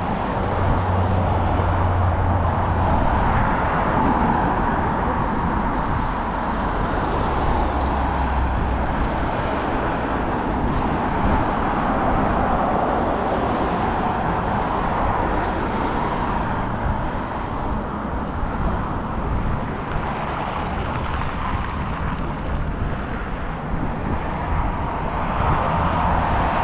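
Steady road traffic: cars passing continuously on a busy city street, a constant hiss of tyres with engine rumble underneath.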